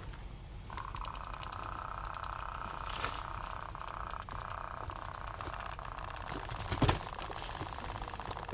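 Cicadas buzzing: a steady rasping drone of fast pulses that breaks off right at the start and starts up again under a second later. A sharp knock about three seconds in and a louder crackling knock near the end.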